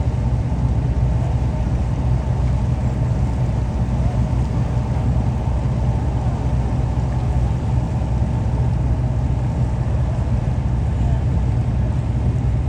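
A boat's engine and hull running steadily, heard on board as a constant deep rumble.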